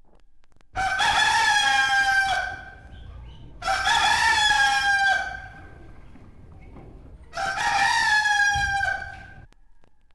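A rooster crowing three times, each crow a long pitched call of about a second and a half, a few seconds apart.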